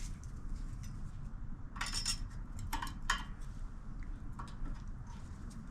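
A few light metal clinks and scrapes from a feeler gauge and hand tools being worked at the valve rocker of a Kohler Courage engine while the exhaust valve clearance is checked, about two seconds in and again a second later, over a low steady background hum.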